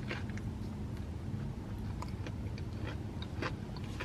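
A person chewing a bite of crispy chicken sandwich, soft scattered mouth clicks over a low steady hum.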